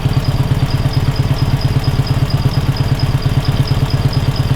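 MT motorcycle's air-cooled flat-twin engine idling steadily with a fast, even beat, its petrol supply shut off so that it runs on LPG from the added gas system.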